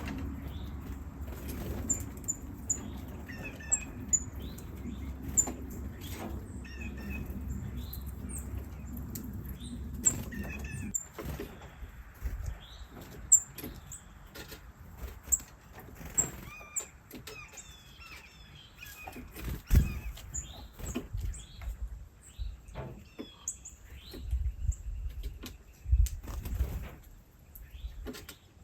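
Small birds chirping in short, high, repeated peeps, with wing flutters and scattered sharp knocks. A low steady hum stops about eleven seconds in.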